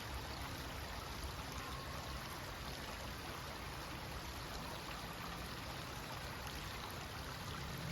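A small creek running: a steady, even rush of flowing water.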